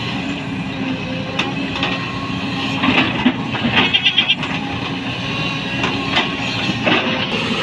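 Excavator engine running steadily under load, with scattered clanks and knocks from the machine at work. About four seconds in, a brief high warbling sound cuts through.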